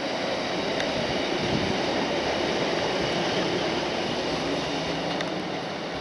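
Class 156 Sprinter diesel multiple unit running past: a steady rumble of engine and wheels on the rails, easing off slightly near the end as it pulls away.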